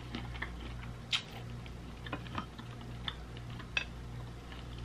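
Close-miked chewing of shrimp, mouth closed: a scattered series of soft, wet mouth clicks and smacks, about one a second, over a low steady hum.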